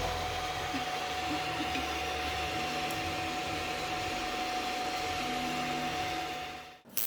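Workshop machinery running steadily: an even hiss with a constant mid-pitched whine. It fades out near the end.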